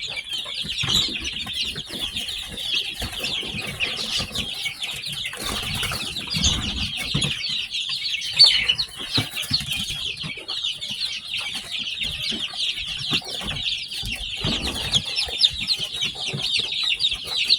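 A brood of newly hatched chicks peeping continuously, many short high chirps overlapping into one dense chorus, with scattered low rustles and bumps underneath.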